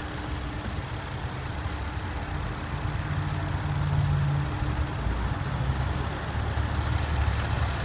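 2015 Audi Q7's 3.0-litre supercharged V6 TFSI engine idling steadily, with a slight swell in the low hum about three to four seconds in.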